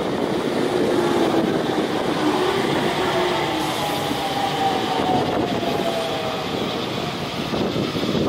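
Electric trains running past close by: the wheel and motor noise of an E231-series commuter train going by on the near track, with a freight train moving on the parallel line. Faint whining tones drift slightly lower in pitch over a steady rumble.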